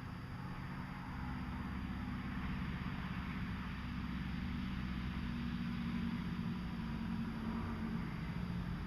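A steady low mechanical hum under a hiss of outdoor noise, with no gunshots.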